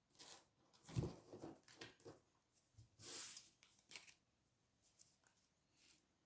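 Faint rustling and soft taps of tarot cards being handled, several short brushes and slides over a few seconds.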